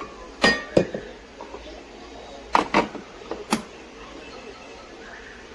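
Several sharp knocks and clicks in two quick groups, a pair about half a second in, then three or four more around the middle.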